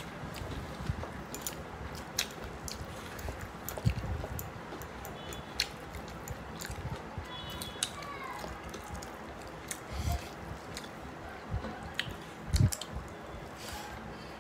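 Close-up eating sounds: mouthfuls of mutton biryani being chewed, with wet smacks and clicks of the mouth, and a few dull thumps, the loudest near the end.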